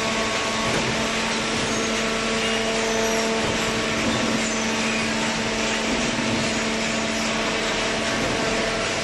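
Automatic horizontal hydraulic baler running: a steady machine hum of its motor and hydraulic pump, with even noise over it.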